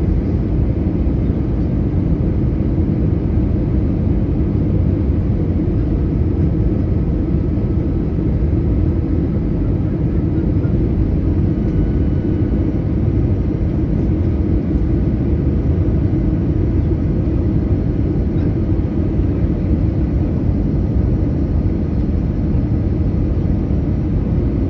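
Airbus A320 airliner noise, a steady low rumble of jet engines and rushing air that holds an even level throughout.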